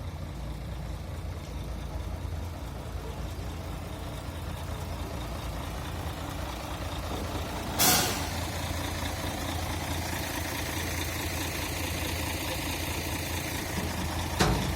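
Heavy diesel vehicle engine idling steadily, with a short, sharp hiss of released air about eight seconds in, like an air brake letting off.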